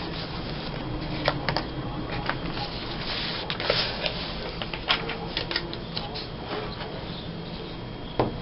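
Paper being handled: magazine clippings and glue-book pages rustling, with scattered light taps and clicks.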